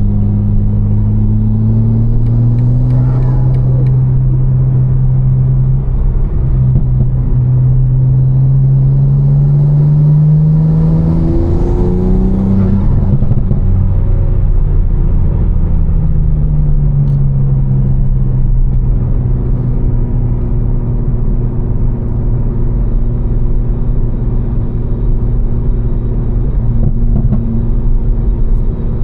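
Tuned BMW M4's twin-turbo inline-six, with catless downpipes and a Fi exhaust, droning under steady cruising load. Its pitch climbs slowly for about ten seconds, then falls away and runs level before dropping off at the very end. Steady road noise from wet tyres lies underneath.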